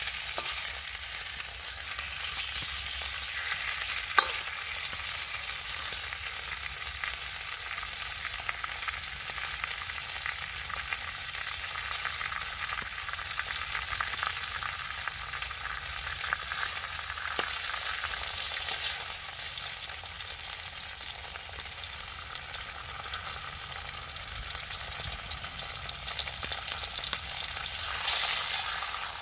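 Food sizzling steadily as it fries in a Chinese wok, with a couple of sharp clicks, one at about 4 seconds and one at about 17 seconds.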